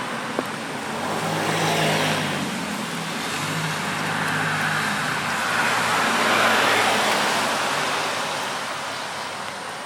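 Cars passing on a rain-wet road, tyres hissing on the wet asphalt over an engine's low hum; the sound swells twice, about two seconds in and again near the middle, over steady rain.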